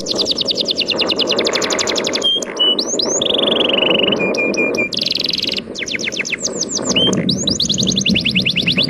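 A songbird singing fast trills of downward-sweeping high notes, broken by a few short whistled notes, over a steady rushing wash of sea waves.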